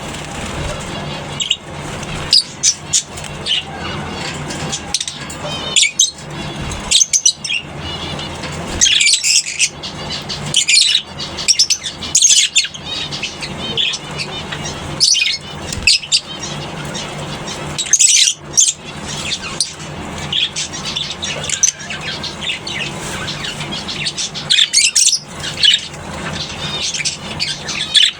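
A colony of lovebirds chattering, with many short, high-pitched chirping calls overlapping throughout over a steady low hum.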